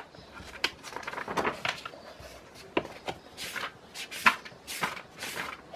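Irregular clicks and knocks with a few short rustling swishes, as of objects being handled and moved about in a small room.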